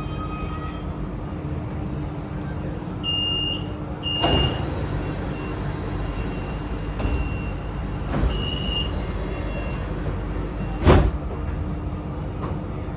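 Metro train standing at a station with its steady electrical hum. Door-warning beeps sound at about 3 and 8 seconds, with knocks from the sliding doors, and the loudest is a single thud near 11 seconds as the doors shut.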